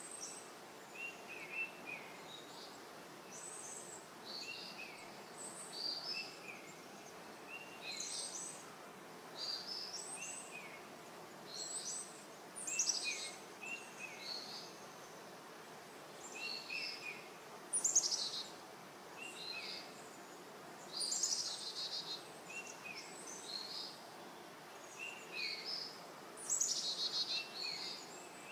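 Several songbirds chirping and singing, short high notes recurring every second or so, over a steady background hiss.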